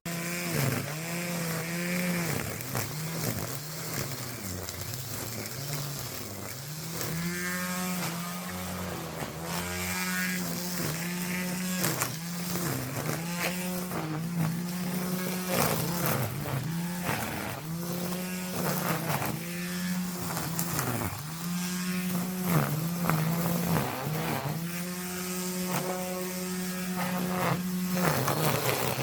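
Brush cutter engine running at high revs while cutting grass, its pitch dipping briefly and recovering again and again as the cutting head takes the load.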